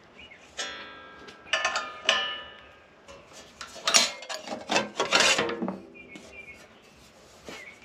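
Thin sheet-metal panel being worked and handled: two clanks early on that ring briefly with a metallic tone, then a run of rough scraping strokes around four to five seconds in.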